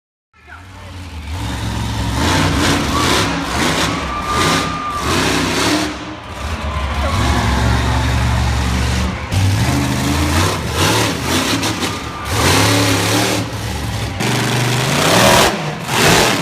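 Monster truck engines running loud and revving, the pitch rising and falling repeatedly; the sound cuts in abruptly about half a second in.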